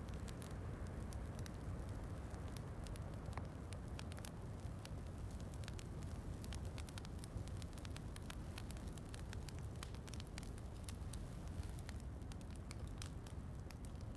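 Wood fire crackling with many small, irregular pops over a steady hiss and low rumble of rain.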